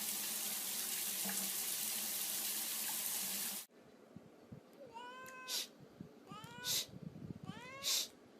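A steady rush of running water that cuts off abruptly, then a cat meowing three times, each meow followed by a short sharp hissing burst.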